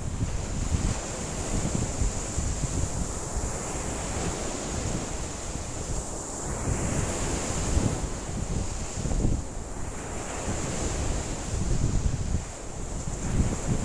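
Lake waves breaking and washing in under strong wind, with gusts buffeting the microphone in an uneven low rumble. The surges of water come every few seconds.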